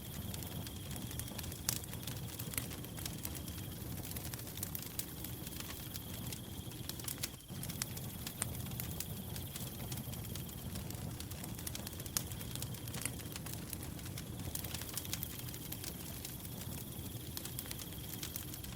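Firewood burning, crackling with frequent sharp pops over a low steady rush. A cricket trills on one high note throughout, breaking off twice for a second or two.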